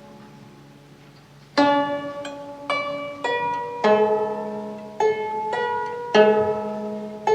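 Guzheng played solo in a slow melody: a note dies away, then after a pause of about a second and a half single plucked notes follow one after another, each left to ring.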